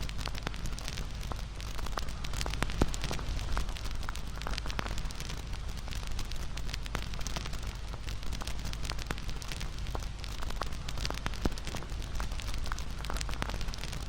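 Wood fire crackling and popping: irregular sharp snaps over a steady low rumble of burning.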